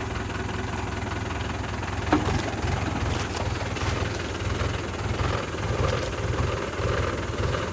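Tractor engine running steadily at idle, with a single sharp knock about two seconds in.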